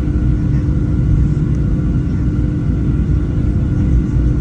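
Steady cabin rumble inside a Boeing 737-700 in flight or on the ground under power, with the constant hum of its CFM56 jet engines running over it.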